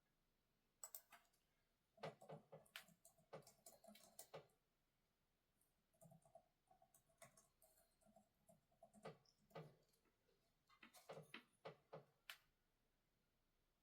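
Faint desk sounds: scattered light clicks and taps in three short flurries, from small objects handled on a desk while studying.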